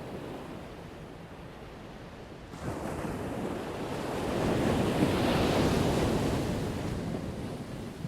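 Ocean waves crashing on the shore. About two and a half seconds in, one wave swells up, breaks loudest near the middle, and then washes out toward the end.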